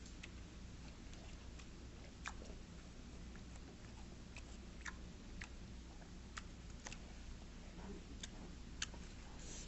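Faint chewing of food, with a few scattered small clicks spread through it.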